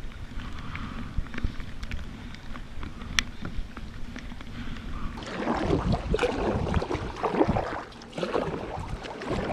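Kayak paddling: paddle strokes splashing in the lake water, getting louder and busier about five seconds in, with wind rumbling on the microphone and a few light ticks before the splashing starts.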